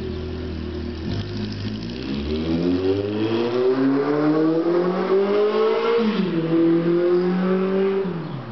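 1982 Yamaha XJ750 Maxim's air-cooled inline-four engine, through baffle-less EMGO shorty mufflers, accelerating with a steadily rising pitch. About six seconds in the pitch drops sharply as it shifts up, then holds. Near the end the pitch falls again and the sound begins to fade.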